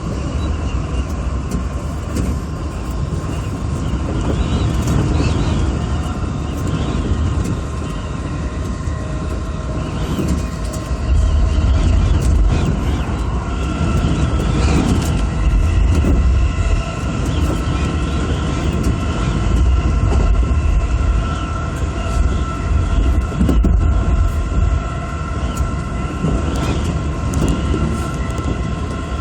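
Electric commuter train running on the line, heard from inside the front car: a steady rumble of wheels on rail with a faint steady whine, louder from about eleven seconds in.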